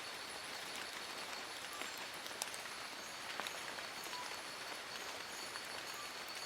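Steady rain falling on forest leaves: an even hiss with scattered sharp drips. A thin, steady high tone runs under it.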